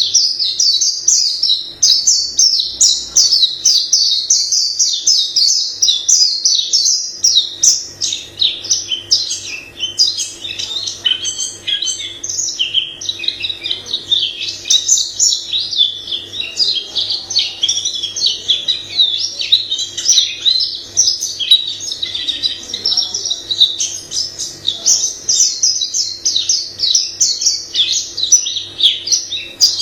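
White-eye singing a long, almost unbroken run of rapid, varied high-pitched twittering phrases.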